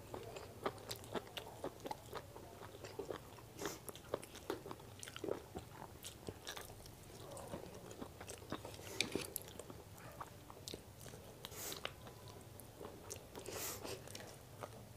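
A person chewing mouthfuls of chicken biryani eaten by hand, close to a clip-on microphone: wet mouth clicks and lip smacks at irregular intervals.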